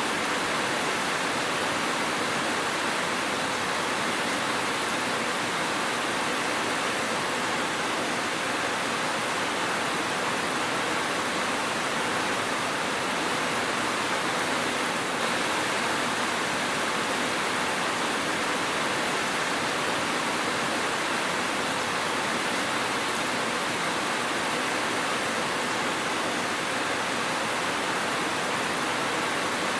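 Steady, even rain noise, a continuous hiss without distinct drops or thunder.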